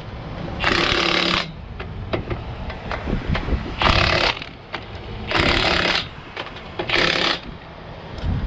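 A power tool run in four short bursts of rattling, hissy noise, with scattered clicks and knocks between the bursts.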